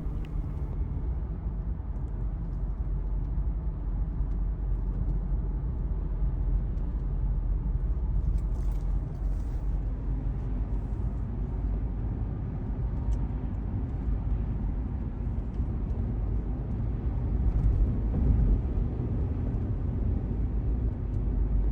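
Car driving: steady low road and engine rumble that swells a little about three quarters of the way through.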